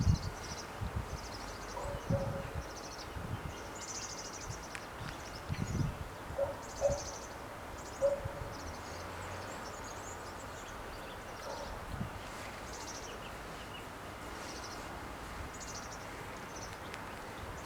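Outdoor ambience with small birds chirping in short, irregular high-pitched bursts over a steady background hiss, with occasional low rumbling thumps.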